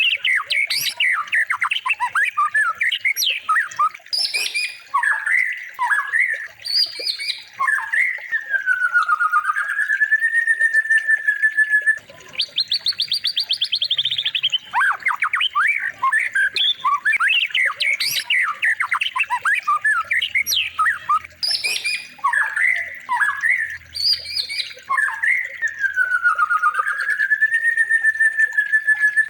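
Songbird song played as a looped masteran training recording: quick chirps and harsh squawky notes, a fast trill, and a slow whistled note that dips and levels off. The same sequence repeats about every twelve seconds.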